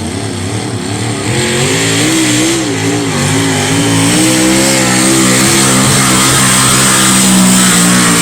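Pulling tractor's engine running hard under load. Its pitch wobbles up and down at first, then holds steadier as it grows louder.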